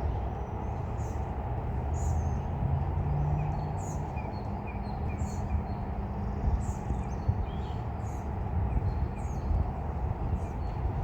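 A steady low rumble with short, high bird chirps repeating about once a second, and a quick run of softer chirps a few seconds in.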